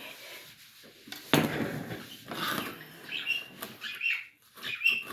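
Small birds chirping in short, high calls, several of them about three to five seconds in. A louder, noisy sound comes about a second and a half in.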